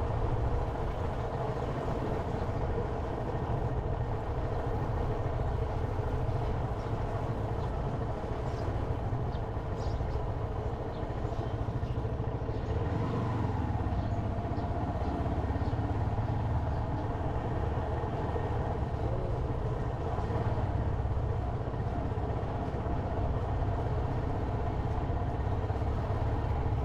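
Motorcycle engine running steadily while riding, with a continuous low rumble.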